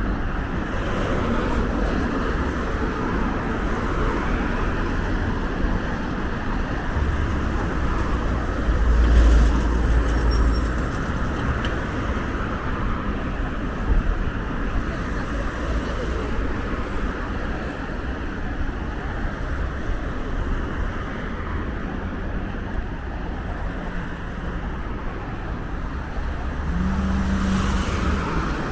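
Road traffic noise: cars passing with a steady rush and low rumbles that swell and fade, loudest about a third of the way in.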